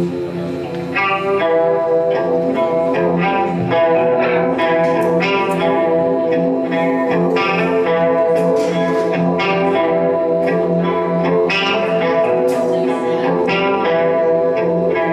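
Live music led by a guitar, playing steady sustained notes with regular new attacks.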